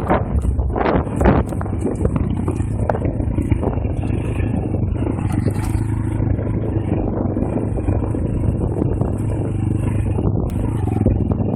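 Pit bike engine running at a fairly steady pitch, heard onboard while riding.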